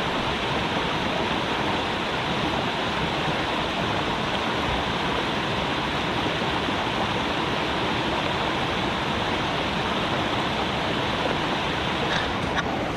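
Creek water flowing, a steady unbroken rush. A couple of faint clicks come near the end.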